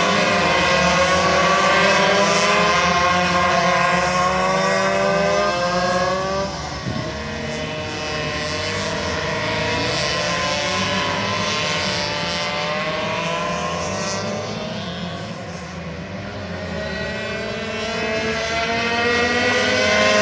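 Several racing minibike engines running at high revs, their pitches rising and falling as the riders change speed through the corners. They fade somewhat about three-quarters of the way through, then grow louder again as the bikes come closer near the end.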